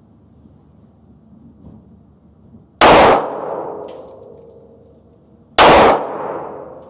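Two handgun shots about three seconds apart, each sharp crack followed by a long fading metallic ring.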